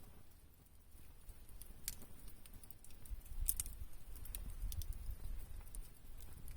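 Campfire crackling: wood burning with scattered sharp pops and snaps, a few louder near the middle. Underneath, a low rumble builds from about halfway.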